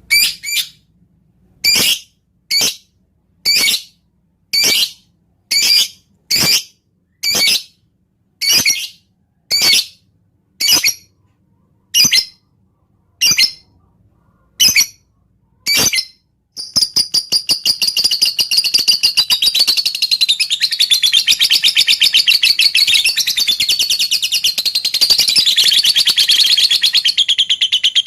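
Lovebird chattering in the 'ngetik' style: short, high, clicking bursts about once a second. About two-thirds of the way in, these give way to one long unbroken run of rapid high chatter.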